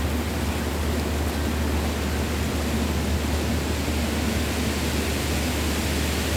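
Steady wind buffeting the microphone: a constant low rumble under an even hiss.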